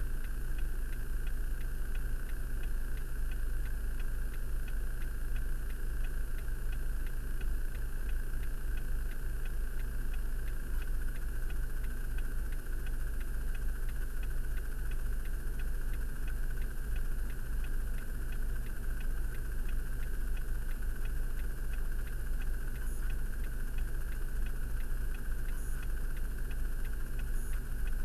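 Car engine idling steadily, heard from inside the stopped car's cabin as a constant low hum.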